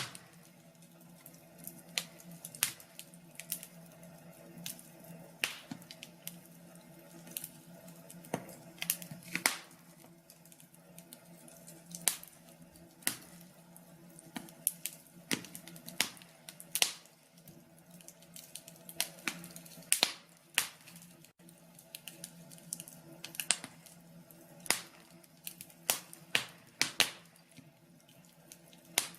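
Wood fire crackling in a fireplace: irregular sharp pops and snaps, sometimes several a second, over a faint steady hum.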